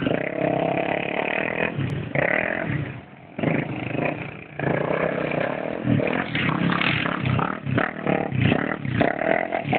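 Motorbike engine running and being revved up and down, with a brief drop in engine note about three seconds in.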